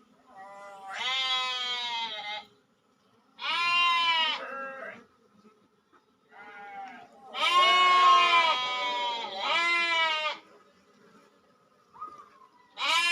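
An animal bleating: a series of about six pitched calls, each up to a second or so long, with short pauses between them.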